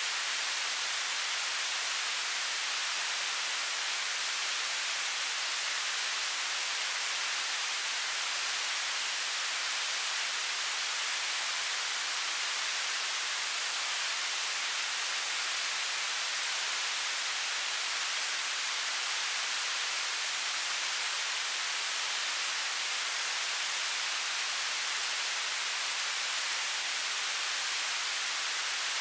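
Television static: a steady, unchanging hiss of white noise, strongest in the high end.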